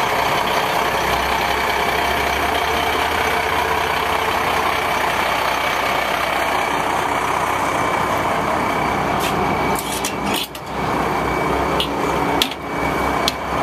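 Diesel truck engine, the 8.3-litre Cummins of a 1994 Ford L8000, idling steadily. A few sharp clicks and two brief drops in level come near the end.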